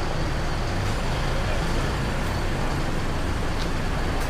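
City street traffic: a motor vehicle's engine running close by over steady road noise. The low hum is strongest in the first second.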